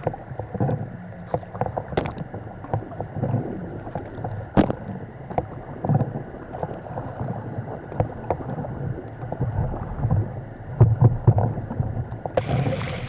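Sea kayak being paddled through light chop: paddle strokes and water splashing and sloshing against the hull, with a few sharp knocks.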